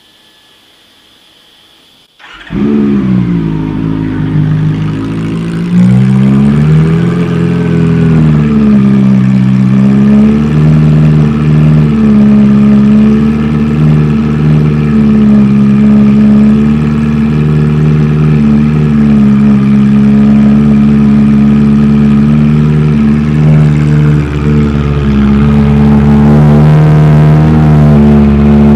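Honda CB400 motorcycle engine through a Delkevic mini carbon-fibre shorty slip-on exhaust, a growler-style silencer, starting about two seconds in. It catches at once and runs loud, its idle rising and falling over the first several seconds before settling into a steady idle.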